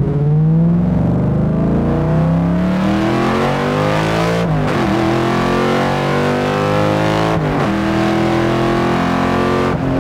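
The 5.2-liter Ford Racing V8 of a Factory Five Type 65 Coupe-R pulls hard under acceleration, heard loud from inside the cabin. The revs climb steadily, then drop sharply three times as the six-speed manual shifts up, and climb again after each shift.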